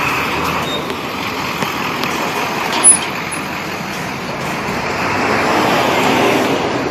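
Busy street traffic: motor vehicles running and passing, the noise swelling as one comes close near the end, with one short sharp sound about three seconds in.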